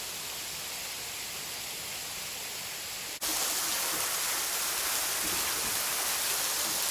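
Steady rush of falling water from a waterfall. About three seconds in it cuts off for an instant and comes back louder and hissier.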